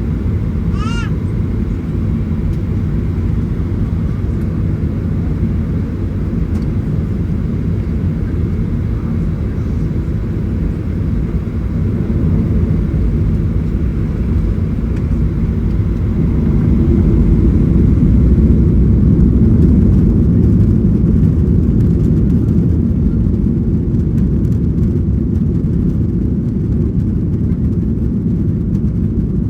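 Cabin noise of a Boeing 737-900ER during its takeoff: the CFM56 engines running loud at takeoff thrust over a deep steady rumble, swelling a little past the middle. A brief squeaky chirp about a second in.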